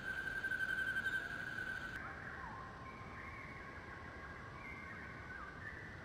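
Faint birdsong in quiet natural ambience. A steady high thin tone holds for about two seconds and stops abruptly. Softer thin calls follow, with a few short falling chirps.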